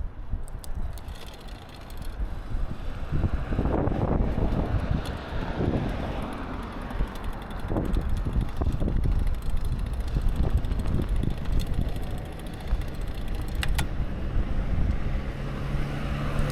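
Wind rumbling over the microphone while riding a bicycle, with rolling road noise. A steady low hum comes in near the end.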